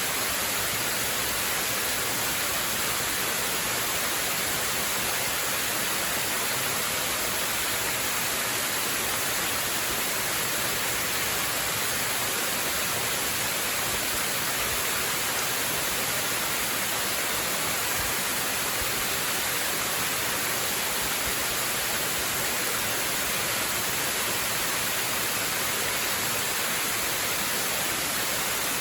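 Waterfall: a steady, even rush of falling water, strongest in the high hiss, with no change throughout.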